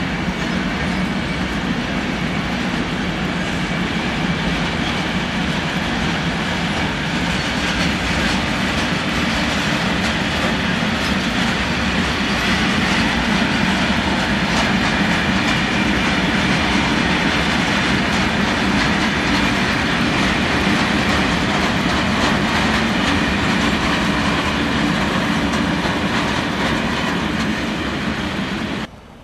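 Freight train of sliding-wall boxcars rolling past close by: a loud, steady rolling noise of steel wheels on rail, with a faint steady high tone above it. The sound cuts off suddenly near the end.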